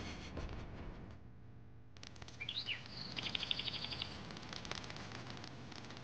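Bird chirps: a short gliding call about two seconds in, then a rapid, high trill of chirps for about a second, with a few scattered chirps after.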